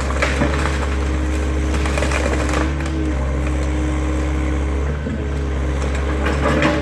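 Excavator's diesel engine running steadily under load, with scattered crackling of demolition debris.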